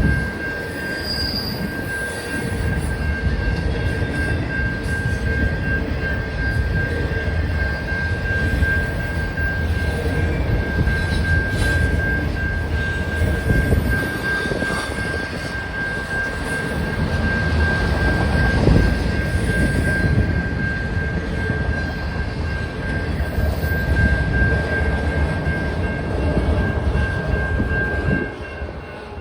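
Norfolk Southern freight train rolling past: a loud, steady rumble of wheels on rail with a steady high-pitched whine over it, dropping off near the end.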